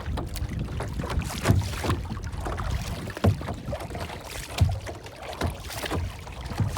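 Water lapping and splashing in irregular slaps about every second or so, over a steady low rumble of wind on the microphone.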